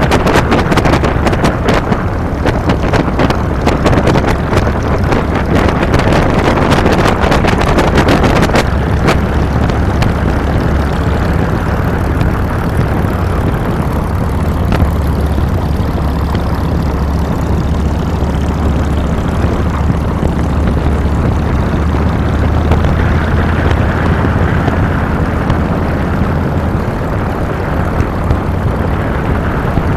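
Harley-Davidson Fat Boy's Twin Cam 96 V-twin running steadily under way, with wind buffeting the handlebar-mounted microphone. The wind buffeting drops off abruptly about a third of the way in, leaving the low, even engine note.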